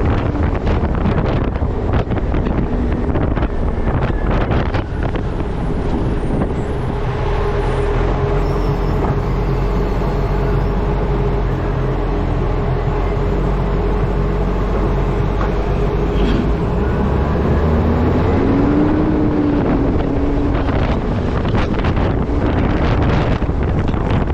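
Wind buffeting a camera microphone strapped to the front of a moving truck, over a steady low road and engine rumble with a faint hum running through it.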